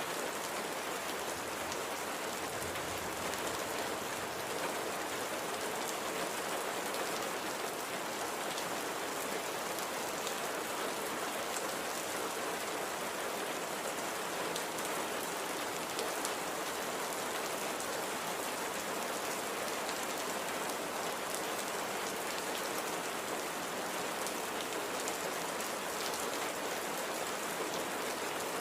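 Steady light rain falling on a surface, an even hiss of drops with fine scattered patters and no change in strength.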